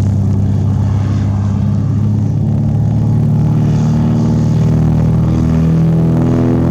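Propeller aircraft engine running with a steady low drone, its stacked tones growing stronger toward the end.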